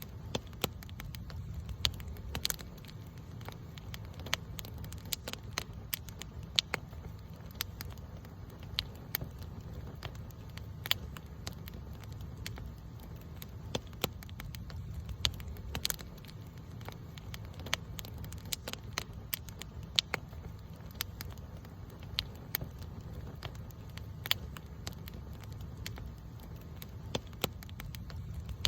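Wood campfire burning and crackling, with irregular sharp pops, a few of them loud, over a steady low rumble of flame.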